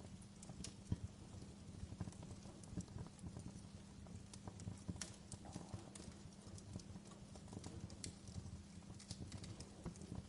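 Wood fire burning in a fireplace, crackling with frequent irregular pops and snaps over a soft low rumble.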